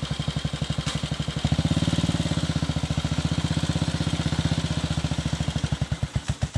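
Single-cylinder four-stroke engine of a 1943 Matchless G3L motorcycle running with an even, thumping beat. It picks up about a second and a half in and eases off near the end.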